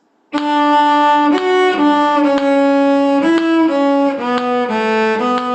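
Violin bowing a short run of separate notes, about a dozen, mostly stepping downward, starting about a third of a second in. It is a learn-by-ear echo phrase built on D, C sharp and B.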